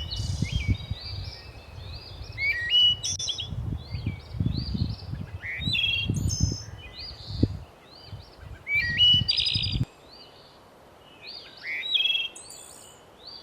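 Several songbirds singing in overlapping chirps and warbled phrases, over a low rumble that cuts off abruptly about ten seconds in.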